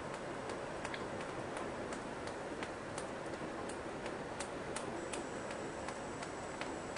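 Rain heard from inside a house: a steady hiss with sharp, unevenly spaced ticks of drops striking a surface, a few a second.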